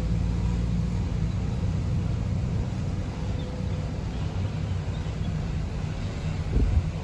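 A car driving, with a steady low rumble of engine and road noise and a low thump near the end.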